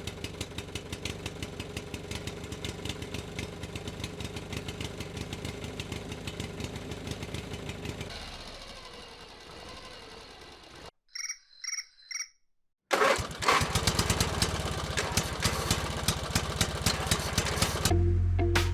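Small motor of a home-built miniature tractor and chaff cutter running with a rapid, even ticking. It winds down and stops about halfway through, then starts up again louder a couple of seconds later. Three short beeps sit in the gap between the two runs.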